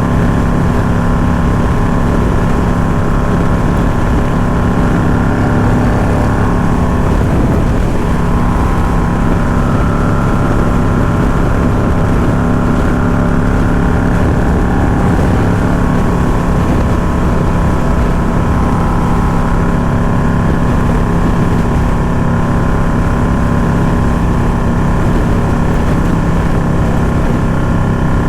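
Indian Scout Bobber's V-twin engine running steadily, with wind noise on the microphone.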